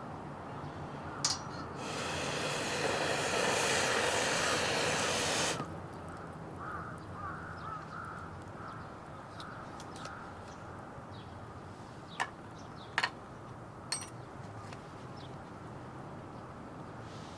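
A wood fire in a Petromax Atago fire pit. A steady hiss lasts about three and a half seconds, then a few sharp crackles and pops come a second or so apart.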